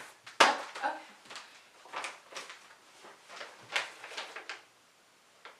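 A string of irregular knocks and clatters, several a second, dying away about four and a half seconds in.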